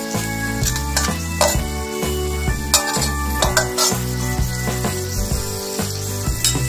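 Sweet soy sauce with onion and garlic sizzling in a wok while a metal ladle stirs it, with sharp scrapes and clinks of the ladle against the wok at irregular moments. Background music with a strong bass plays underneath.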